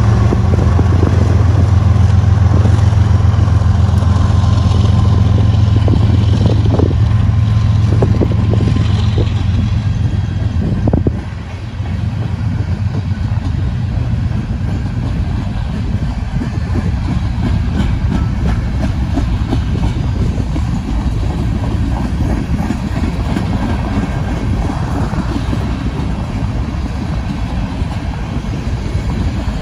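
Freight train passing close by: the diesel engine of the trailing locomotive runs with a loud, steady low hum that cuts away suddenly about a third of the way in. After that, covered hopper cars roll past with a steady wheel rumble and a few clacks over the rail joints.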